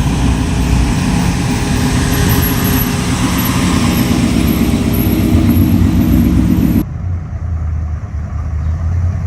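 A motor vehicle's engine running loudly with a lot of noise, which stops abruptly about seven seconds in, leaving a lower, steady engine hum.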